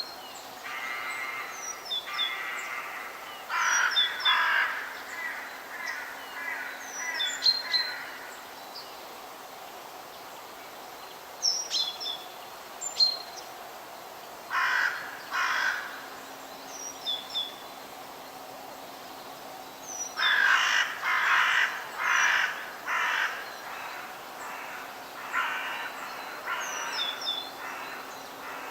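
Forest birds calling: loud calls about half a second long come in runs of two to six, with short high chirps from smaller birds in between.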